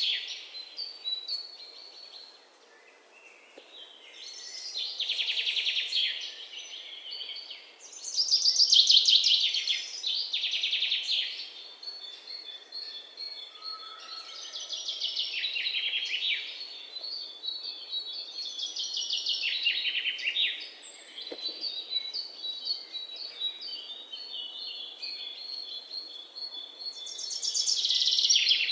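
Songbirds singing: bursts of rapid, trilled chirping phrases, each a second or two long, come every few seconds. A thinner, steady series of high notes runs beneath them through the second half.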